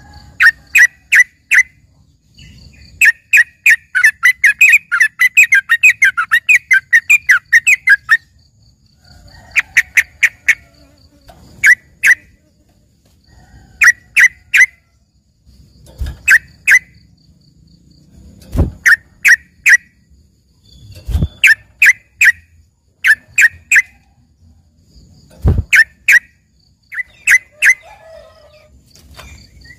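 Yellow-vented bulbul (trucukan) singing its learned fill-in ('isian') song, which is likened to the song of a greater green leafbird. Loud, sharp notes come in quick groups of two to four, with a long rapid run of notes from about three to eight seconds in.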